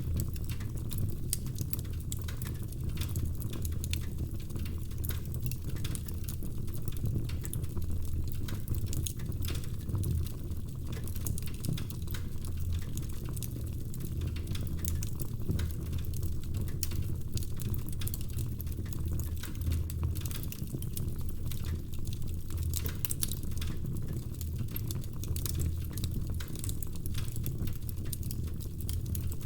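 Wood fire burning in a fireplace: a steady low rumble of the flames with dense, irregular crackles and pops from the burning logs.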